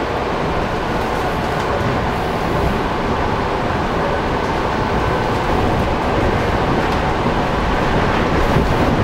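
Suburban electric train (elektrichka) running at speed, heard from inside the carriage: a steady rumble and rush of wheels on rails, growing slightly louder.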